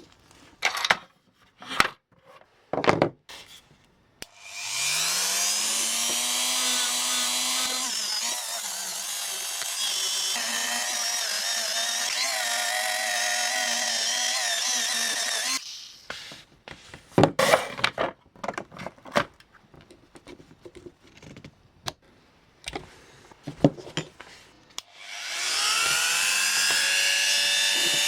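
Small handheld power tool spinning up with a rising whine, running steadily for about eleven seconds, then stopping. Scattered clicks and knocks of parts being handled follow, and near the end the tool spins up again.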